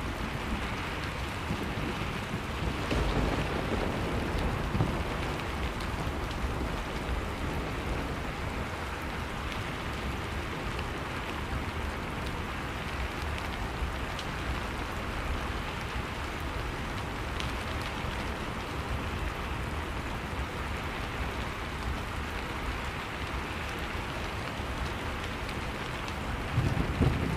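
Steady rain with low, rolling thunder: one rumble a few seconds in and a louder one near the end.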